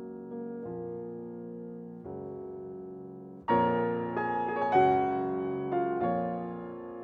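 Slow piano music: soft sustained chords, turning louder and brighter with higher notes about halfway through.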